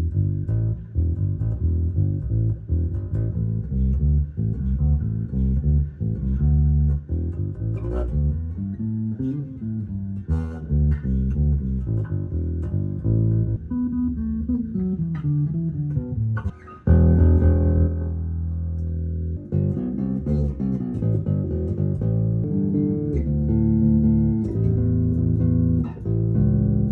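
1977 Aria Pro II precision-style electric bass, made by Matsumoku, played as a run of single low notes and short phrases, with a falling line of notes near the middle and a longer held note after it. It is freshly restrung and set up, and plays without fret buzz.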